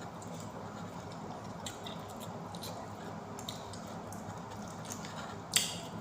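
A person eating pizza close to the microphone: soft chewing with small scattered clicks, and one sharp, louder click or crunch near the end.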